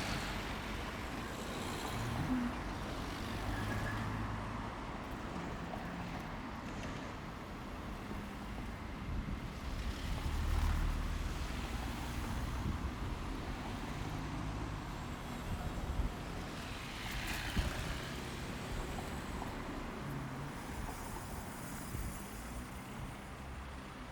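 Road traffic going past: buses, cars and lorries with engines running low under steady tyre noise. One vehicle is loudest about ten seconds in, and a hissing swell rises and fades around seventeen seconds.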